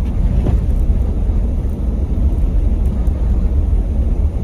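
Steady low rumble of a car driving through deep snow, heard from inside the cabin: engine and tyres working through the piled snow.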